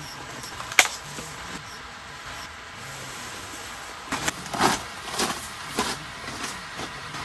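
Steady hiss of rain on the tent, with one sharp click about a second in and a run of clicks and knocks from about four to six seconds in as a camp lantern is handled and swapped.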